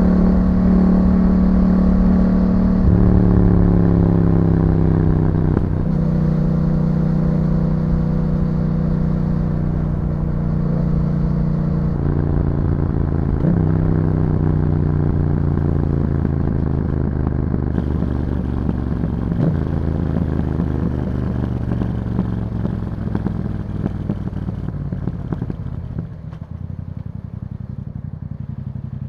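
2021 Yamaha MT-07's 689 cc parallel-twin engine through an Akrapovič exhaust, the pitch sinking steadily as the bike slows on engine braking and stepping up several times at downshifts. The engine quiets near the end.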